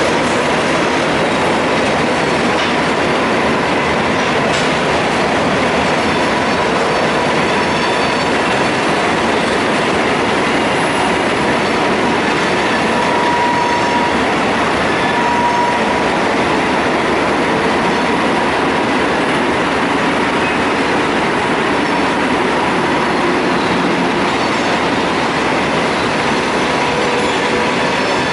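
Freight train rolling past, a loud steady rumble of wheels on rail with clickety-clack, and brief wheel squeals about halfway through.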